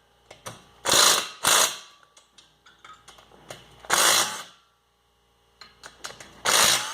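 Impact gun hammering in four short bursts on the 12 mm cylinder head bolts of a 1979 Suzuki RM125 two-stroke engine, with small metal clicks between the bursts. The bolts are stuck tight and are being broken loose.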